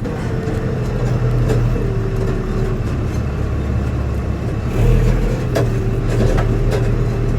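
A farm tractor engine running steadily with a low drone, with a few faint clicks over it. The drone gets louder about five seconds in.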